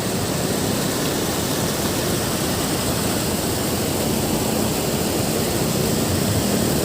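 Steady rushing of flowing water, an even hiss and roar that holds the same level throughout.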